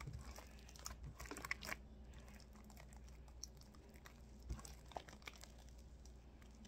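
Creamy shaving-cream slime being squished and kneaded by hand, giving faint, scattered sticky crackles and small pops.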